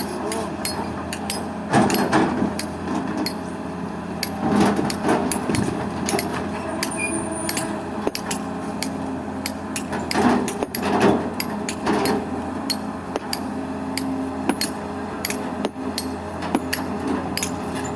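Excavator diesel engine running steadily while digging, with frequent sharp clicks and clanks and a few louder bursts of working noise.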